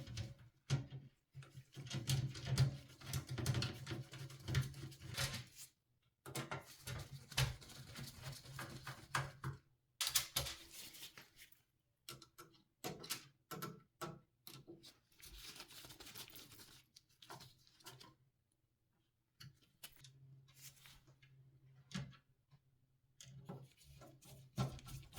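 Irregular clicks, taps and light rattles of hard plastic and metal computer parts being handled during a PC build. There are brief silent breaks, one about six seconds in and a longer one about eighteen seconds in.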